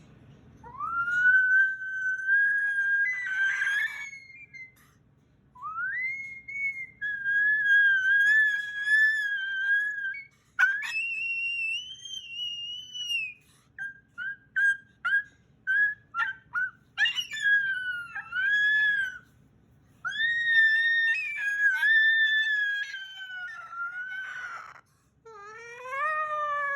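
Moluccan cockatoo making long whistled calls: drawn-out notes that slide up at the start and waver in pitch, with a quick run of short whistles about halfway through and rising-and-falling whistles near the end.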